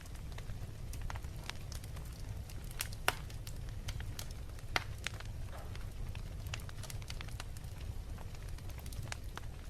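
Wood fire in a fireplace crackling: irregular sharp pops and snaps, a couple of them louder, over a steady low rumble of the burning.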